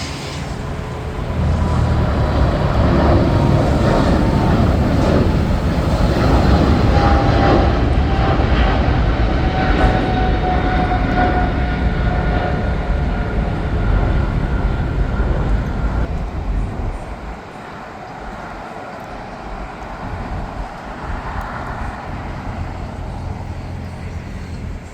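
Jet airliner passing close, its engines' deep roar swelling about a second and a half in, with a whine that slides slowly down in pitch as it goes by. The roar falls away sharply around two-thirds of the way through, leaving a lower rumble.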